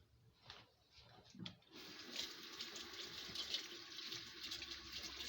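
A couple of light knocks, then a tap turned on and water running steadily into a sink from about two seconds in.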